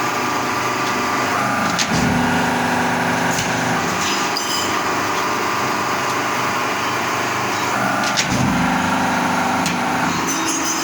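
Manual metal lathe running steadily, working a stainless steel plate, with a constant machine hum and a few sharp clicks. The sound gets briefly louder and harsher about two seconds in and again about eight seconds in.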